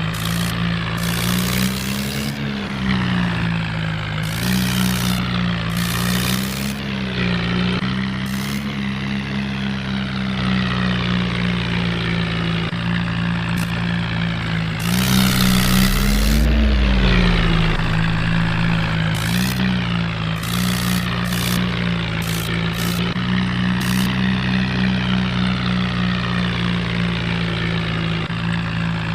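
Toy tractor's diesel engine sound idling steadily, swelling briefly in pitch a few times like short revs, with a higher whir that comes and goes over it.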